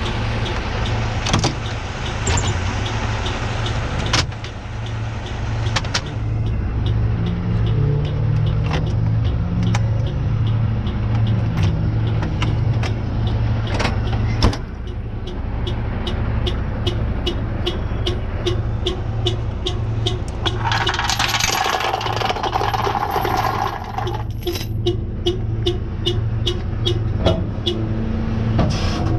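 A truck engine idling steadily, with scattered knocks and clicks over it and a regular ticking in the second half. There is a hiss of about three seconds near the end.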